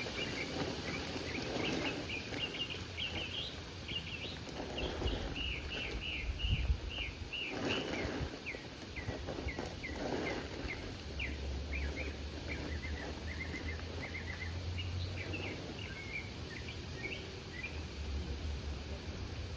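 Small birds chirping: many short, high chirps in quick runs. There is some rustling, and a low rumble in the second half.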